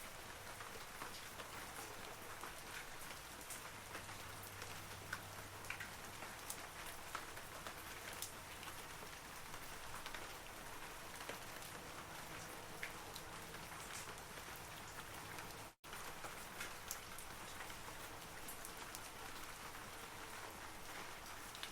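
Steady rain falling on forest trees, an even hiss of rainfall with many separate droplet ticks scattered through it. The sound cuts out completely for an instant about sixteen seconds in.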